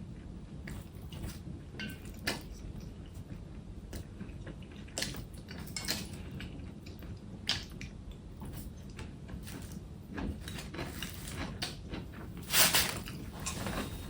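A person eating close to the microphone: wet chewing and mouth smacks in short, scattered bursts over a steady low hum, with one louder burst near the end.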